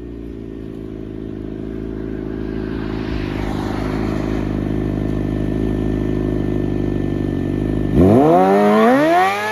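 Suzuki GSX-R750's inline-four with a slip-on exhaust running at a steady pitch and slowly growing louder. About eight seconds in it revs hard, its pitch climbing steeply with a brief drop partway up as it shifts gear.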